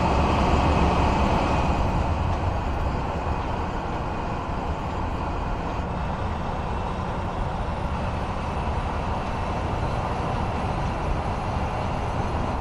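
Truck running steadily, a constant engine and road noise with no distinct events, easing slightly in loudness after the first couple of seconds.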